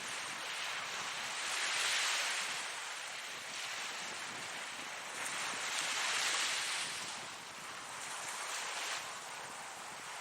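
Ocean waves breaking and washing in, a continuous rushing that swells twice into louder surges about four seconds apart, with a smaller surge near the end.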